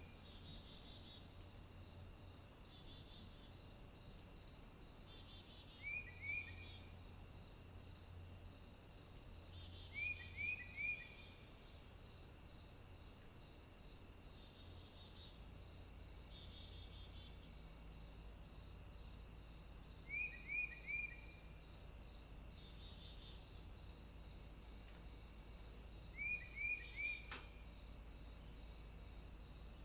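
A small bird calling in short groups of three or four quick, falling chirps, five times at irregular intervals, over a steady faint high-pitched hiss with a soft pulsing.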